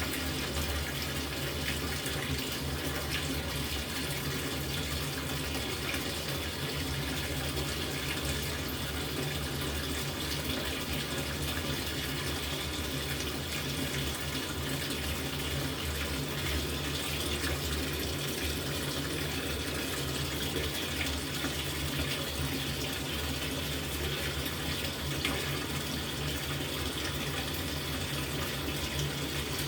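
LG top-loading washing machine filling with water: a steady rush of water pouring into the tub.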